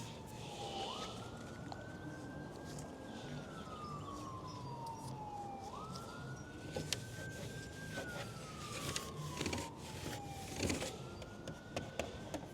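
Siren wailing: a single tone that climbs quickly, holds, then slides slowly down, repeating about every five seconds. Light clicks and taps sound now and then.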